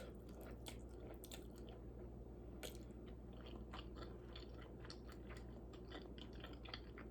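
Faint close-up chewing of spicy instant noodles: soft wet mouth clicks and smacks at an uneven pace.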